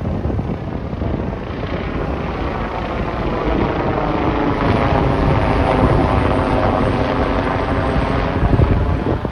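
Helicopter flying overhead, its rotor and engine drone growing louder toward the second half as it passes, the pitch sagging slightly near the end.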